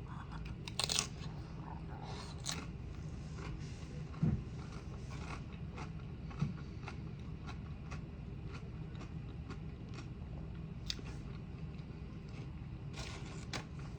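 A person chewing food up close, with many small mouth clicks and a few louder scrapes and rustles.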